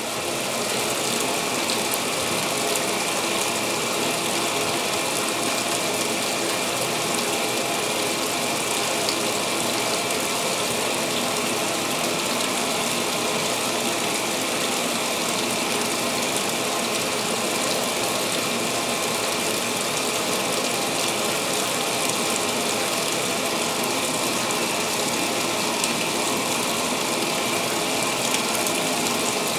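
2016 Speed Queen top-load washer filling its tub with water at the start of the pre-wash cycle: a steady rush of water with a mechanical rattle under it.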